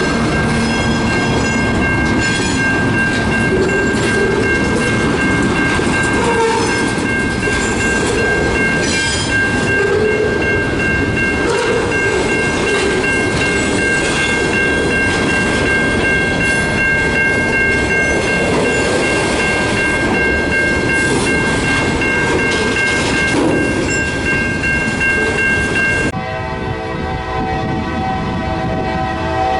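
A train rolling past, its railcars' wheels clicking over the rail joints under a steady high ringing tone. Near the end the sound changes abruptly to a lower tone with many even overtones, like a train horn.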